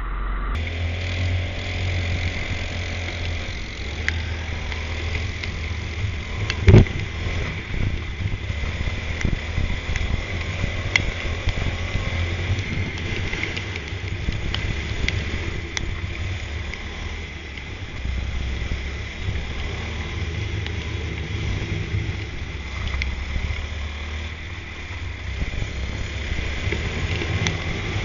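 Racing kart engine running, its pitch rising and falling, over a steady low rumble. A single sharp knock about seven seconds in.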